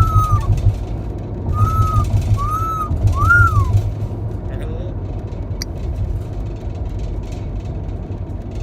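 Talking parrot giving four short whistled, speech-like notes, each rising and falling, in the first four seconds, then a sharp chirp or two later on. A steady low rumble runs underneath.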